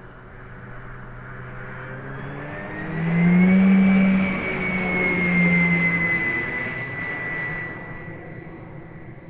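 A 70mm electric ducted fan RC jet, the Sky Sword, flying past. Its fan whine swells to its loudest about three to four seconds in, the pitch rising then dropping a little as it passes, then fades away.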